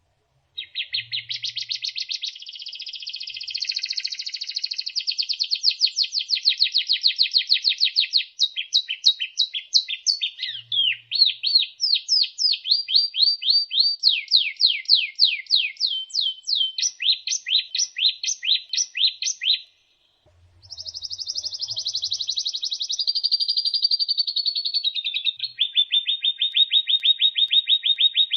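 White-rumped shama (murai batu) singing a long, varied song: fast trills, then a run of quick sweeping notes. It stops briefly just before the 20-second mark, then starts again and ends in a steady, rapid trill.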